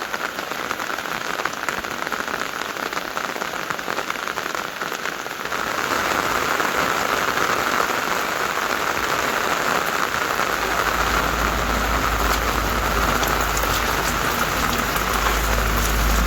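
Steady rain falling, a dense even patter that gets louder about five seconds in. A low rumble joins underneath about ten seconds in.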